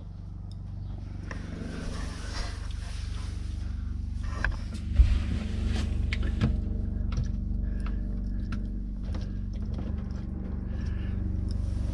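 A running vehicle heard from inside the cab: a steady low engine and road rumble that grows louder over the first few seconds, with scattered light clicks and a sharper knock about five seconds in.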